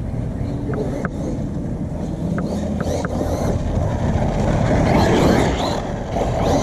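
Losi Baja Rey 1/10-scale RC desert truck driving over dirt: a continuous rough rumble of tyres and chassis with a few sharp ticks in the first three seconds, growing louder about five seconds in.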